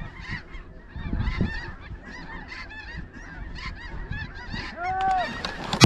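A flock of snow geese calling: many short, overlapping honks, with one louder, longer call about five seconds in. A low rumble comes through about a second in.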